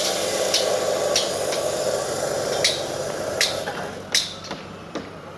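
Sharp clicks or knocks at an uneven pace over a steady hiss; the hiss fades about three and a half seconds in, leaving a few separate clicks.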